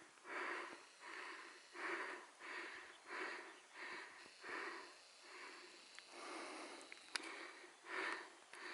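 A hiker's heavy, rhythmic breathing close to the microphone: quick breaths in and out, about one and a half a second, with a small click about seven seconds in.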